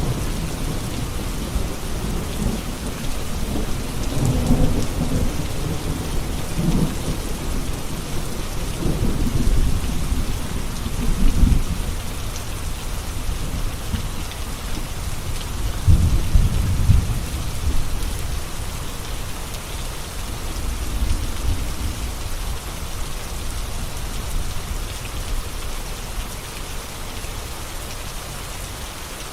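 Steady heavy rain with rolling thunder: deep rumbles swell several times in the first part, the loudest about sixteen seconds in, then die away under the even patter of the rain.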